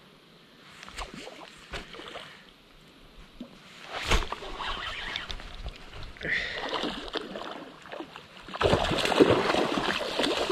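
A hooked small sharptooth catfish (barbel) fighting at the surface and splashing beside the boat, loudest over the last two seconds. A sharp knock about four seconds in.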